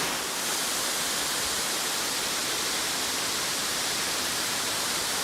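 Arethusa Falls at high spring flow: steady, unbroken rushing of falling water.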